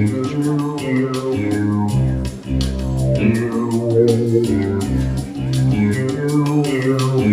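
Instrumental jazz tune played by a small group: bass notes and chords under a melody, with a regular beat of sharp strikes.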